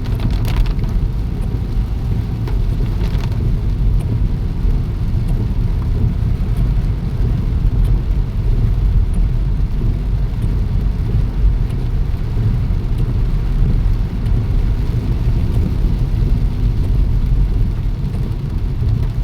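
Steady heavy rain: a dense, even low noise with faint scattered drop ticks.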